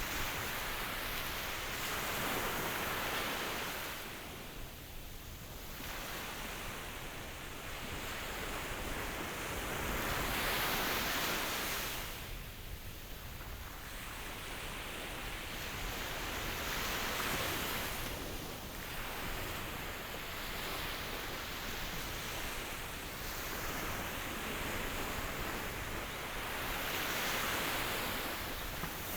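Ocean waves washing in: a continuous rushing hiss that swells and fades about every six to seven seconds as each wave breaks and draws back.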